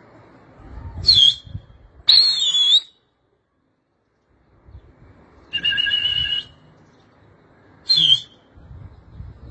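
Four shrill, wavering whistles, two brief and two longer, of the kind a pigeon keeper gives to his flying homing pigeons.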